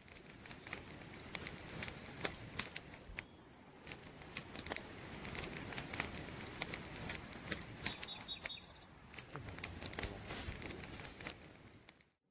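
Campfire crackling: irregular sharp pops and snaps of burning wood over a soft steady hiss. A few faint, short high chirps come in around the middle.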